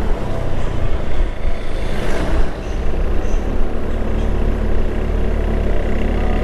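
Motorcycle engine running steadily while riding, with wind rushing over the microphone; the rush swells briefly about two seconds in.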